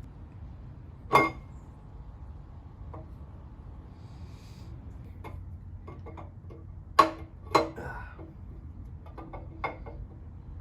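Metal parts and tools clinking and knocking during teardown of a Ford 302 Windsor small-block's camshaft area: a sharp clank about a second in, two louder clanks close together around seven seconds in, and lighter ticks in between.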